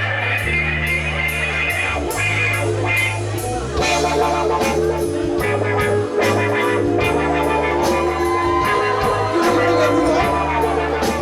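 Rock band playing live without vocals: electric guitar over long held low notes and a steady drum beat.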